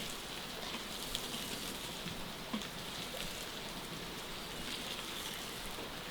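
A steady hiss sprinkled with faint light ticks, a rain-like patter.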